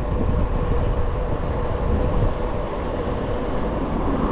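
Wind buffeting the microphone while riding a bicycle, mixed with road noise, plus a faint steady hum.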